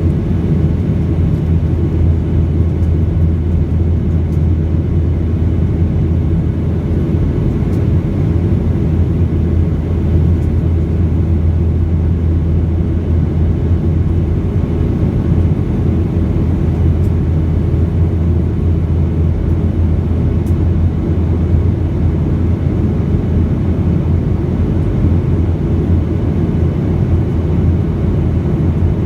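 Boeing 737 in flight, heard from inside the cabin: a steady low rumble of engine and airflow noise, with a few faint ticks.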